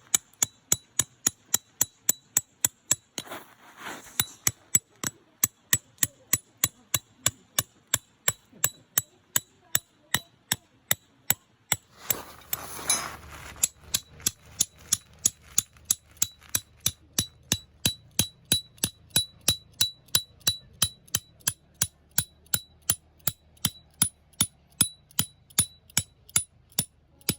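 Tent pegs being hammered into the ground: a steady run of sharp metal strikes, about three a second, each with a short ringing tone.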